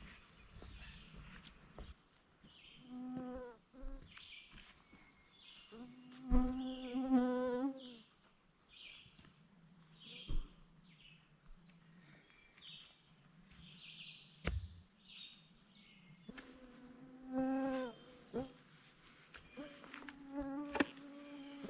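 A flying insect buzzing close by in several passes of a second or two each, its hum wavering in pitch, with faint small clicks between.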